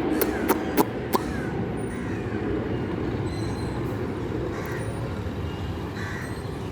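Outdoor street background: a steady rumble of traffic-like noise, with a run of sharp, evenly spaced knocks, about three a second, that stops about a second in.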